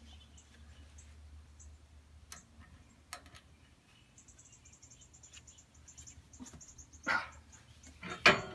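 Faint scattered clicks and knocks of hand tools working on the tiller, one louder knock near the end. About halfway through comes a high, rapid insect-like chirping trill that lasts about three seconds.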